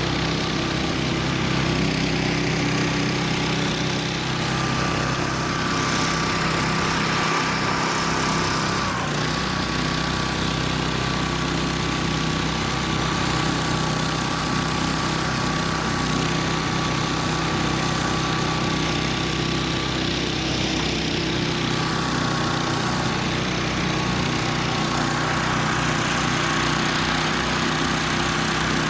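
Homemade karakat's engine running steadily, with a thin high whine alongside it that dips slightly in pitch about nine seconds in.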